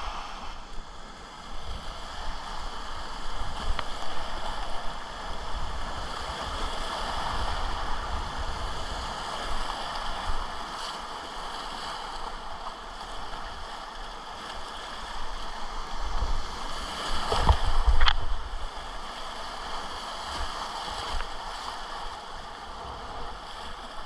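Rushing whitewater of a river rapid, a steady hiss of moving water, with a louder surge and a few sharp splashes about three-quarters of the way through.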